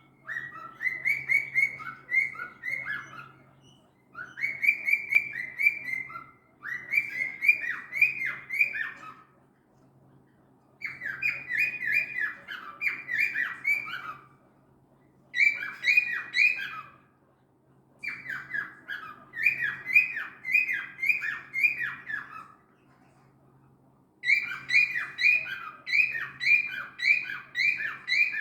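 Cockatiel calling over and over in bouts of rapid, repeated shrill chirps, several a second, each bout lasting two to three seconds with short pauses between: the insistent calling that its owner likens to an alarm clock.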